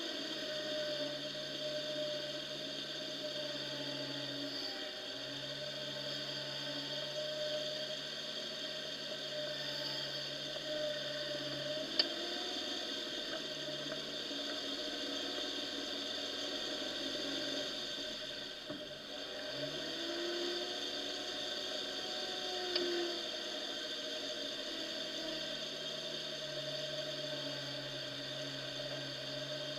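Off-road 4x4 engine running under varying throttle while driving through mud, its pitch dipping and rising several times. Two short sharp knocks, about halfway and about two-thirds of the way through.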